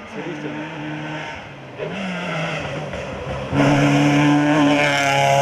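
Volkswagen Polo rally car engines running hard in a string of short cuts. The engine note holds steady in each, and is loudest in the last clip, which starts about two-thirds of the way in.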